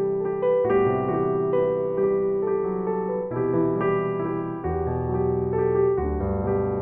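Background piano music: soft sustained chords with a changing bass line, notes shifting about once a second.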